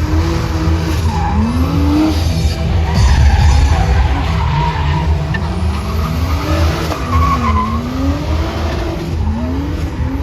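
Drift cars sliding with tyres screeching, their engines revving up and down again and again as the throttle is worked through the slides.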